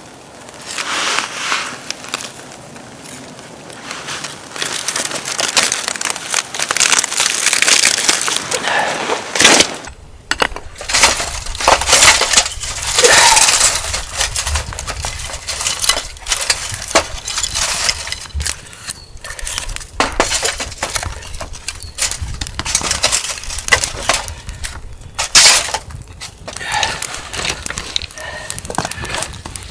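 Irregular crunching and snapping handling sounds with occasional clinks, growing busier and louder about a third of the way in.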